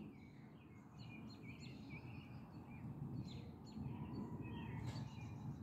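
Small birds chirping, many short high calls in quick succession, over a faint low steady outdoor rumble.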